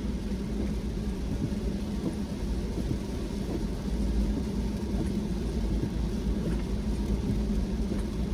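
Car driving steadily: a constant low rumble of engine and tyres on the road, with a steady hum underneath.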